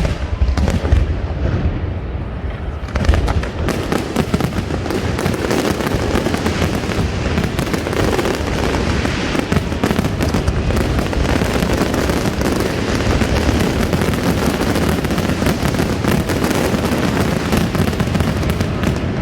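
A harbour fireworks barrage: a few separate bangs, then from about three seconds in a dense, continuous mass of overlapping crackling bursts and booms.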